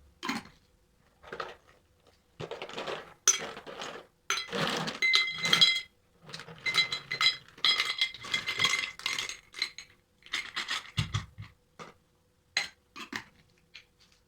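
Dishes and glass containers clinking and knocking together as they are handled and set down, a series of irregular clinks and rattles, some of them ringing briefly, with a duller knock near the end.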